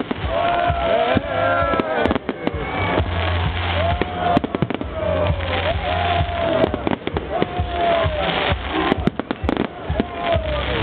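New Year's Eve fireworks display: many sharp bangs and crackles, with repeated rising-and-falling whistling tones, over music with a heavy bass.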